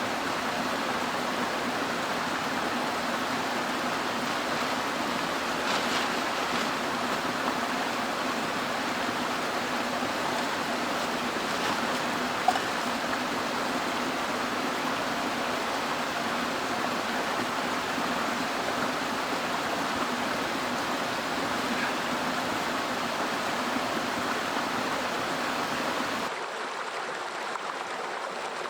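Mountain headwater stream flowing, a steady rush of water. One sharp click sounds about twelve seconds in, and near the end the rush abruptly becomes quieter and thinner.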